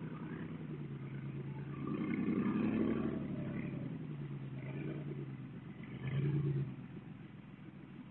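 Car engine revving in surges as a sedan crawls up a slick, snowy hill with little grip, picked up through a doorbell camera's microphone. It swells about two seconds in and again briefly around six seconds.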